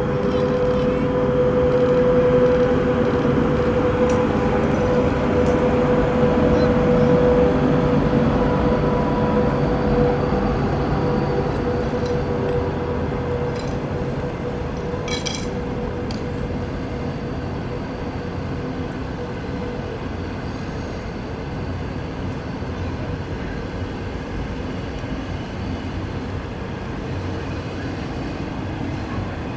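A train running along the railway line, with a steady whine over its running noise that is strongest in the first half and fades as the noise eases off. A few light clinks come near the middle.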